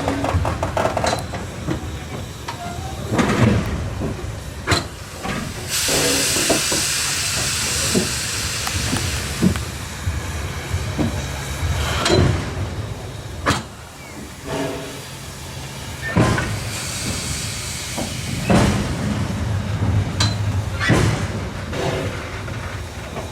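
Steam locomotive C17 974 hissing steam twice, a longer hiss about a quarter of the way in and a weaker one past the middle, over a low steady rumble with scattered clanks and knocks.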